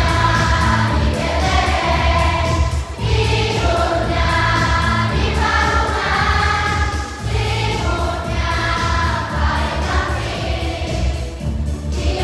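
Children's Sunday school choir singing a Christmas song in Indonesian over instrumental accompaniment with a steady, pulsing bass line.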